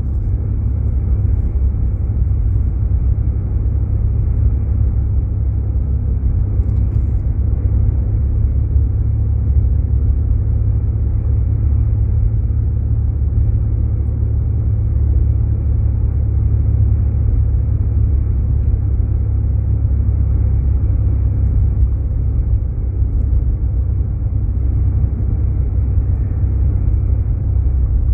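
Jeep Grand Cherokee driving on a snowy road, heard from inside the cabin: a steady low rumble of road and engine noise.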